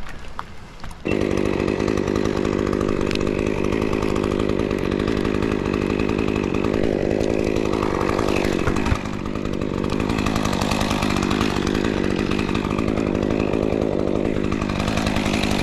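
Chainsaw starts up about a second in and runs at high speed, cutting into a dead oak limb; its pitch drops twice as the chain bogs down in the wood.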